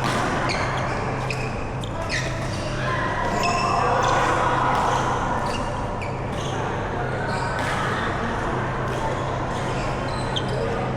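Badminton doubles rally in a sports hall: sharp racket hits on the shuttlecock and short squeaks of court shoes on the floor, with background voices and a steady low hum of the hall.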